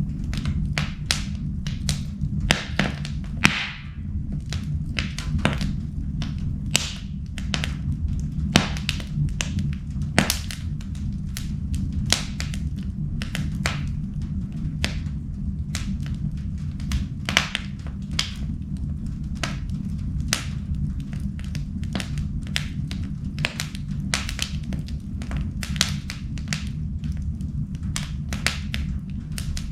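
Wood fire burning in an indoor fireplace, crackling with frequent irregular sharp pops and snaps over a steady low rumble of the flames.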